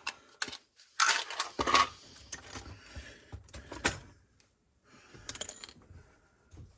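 Small metal hand tools clinking and clanking against each other as they are handled and tossed in, with a cluster of sharp clanks a second or so in and more near four and five and a half seconds.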